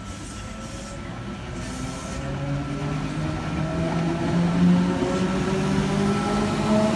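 Electric passenger train accelerating, its traction motor whine rising in pitch and growing steadily louder over a rumble of wheels on rail.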